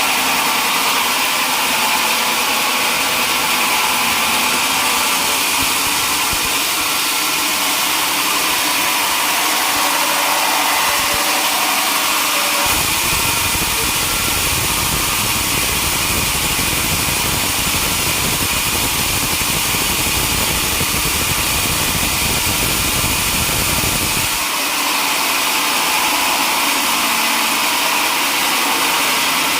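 Sawmill machinery running with a steady engine drone and hiss. A deeper low rumble comes in just under halfway through and stops about five seconds before the end.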